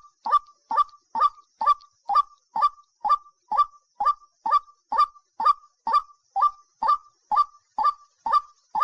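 A bird giving short, harsh, honking calls over and over, evenly spaced at about two a second, each call dropping quickly in pitch.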